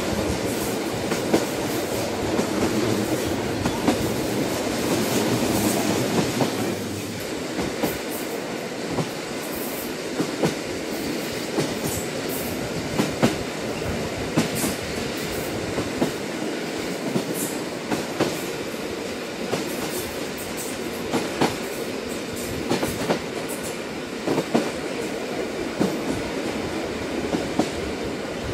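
A train running on the rails: a steady rumble of the wheels, with the clickety-clack of knocks as they pass over rail joints every second or so. The deep part of the rumble eases a little about seven seconds in.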